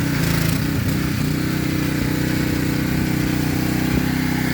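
Pressure washer running steadily. Its pitch wavers briefly in the first second and a half, with a short hiss near the start.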